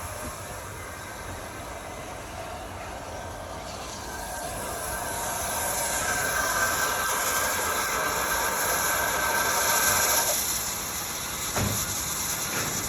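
LMS Jinty 0-6-0 tank steam locomotive standing with steam hissing. The hiss grows louder about halfway through and drops away suddenly near the end, followed by a single knock.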